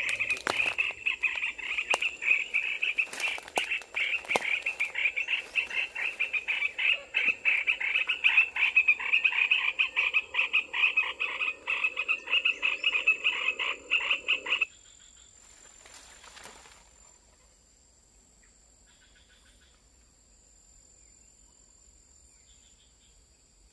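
Fast, rhythmic animal calling, many high-pitched pulses a second in a dense chorus, which cuts off suddenly about fifteen seconds in. A faint, steady high hum is left after it.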